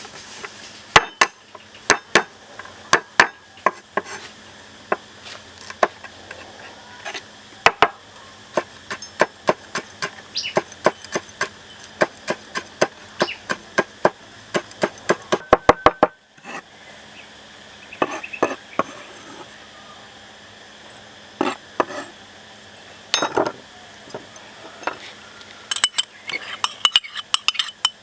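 Irregular sharp clinks and knocks of kitchen utensils and dishes being handled. A little past halfway comes a quick run of even taps, about eight a second.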